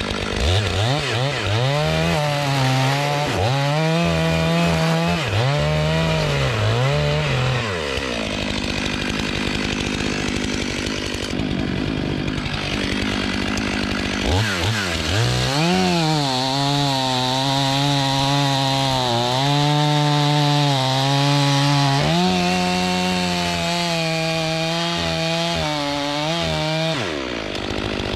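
Stihl MS500i chainsaw cutting through a log. Its engine pitch dips and recovers repeatedly under load during the first cut. After a lull in the middle, a second long cut holds a steadier pitch and drops away near the end.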